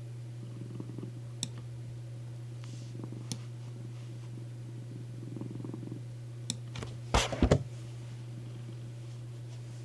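Domestic cat purring steadily on a lap, with scattered light clicks. A brief cluster of louder knocks comes about seven seconds in.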